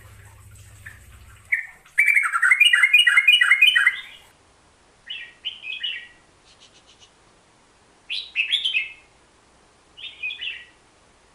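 A merbah jambul (bulbul) singing. About two seconds in it gives a loud burst of quick repeated warbling notes lasting about two seconds, then three shorter phrases a couple of seconds apart. A faint low hum runs under the first second and a half.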